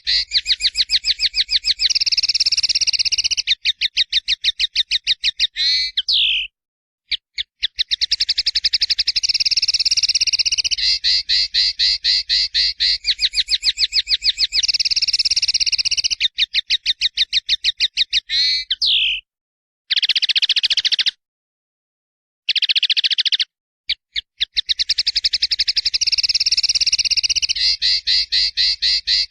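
Songbird singing long trills of rapidly repeated high, clear notes. The song breaks off abruptly into a few dead-silent gaps where the recording is cut.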